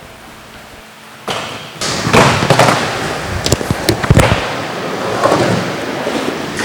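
Skateboard rolling and clacking during a trick attempt: wheels on the ground, with several sharp knocks of the board's tail and deck striking the ground, starting about a second in.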